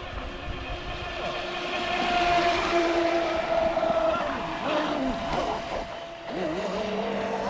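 Radio-controlled boat motors whining over the spray of water, the pitch holding steady and then sliding up and down as the throttle changes.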